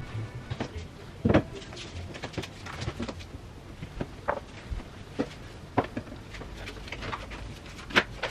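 Irregular clicks and knocks of household things being handled and set down, with a louder knock about a second in and another near the end.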